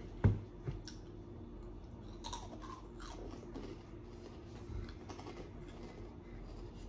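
Someone chewing and crunching food close to the microphone, with scattered crackly crunches. A single sharp thump about a quarter of a second in is the loudest sound.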